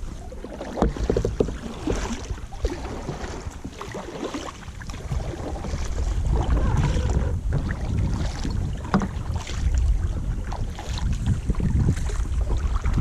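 Kayak paddling: paddle strokes splashing and dripping in the water with irregular knocks, while wind rumbles on the microphone, growing louder about halfway through.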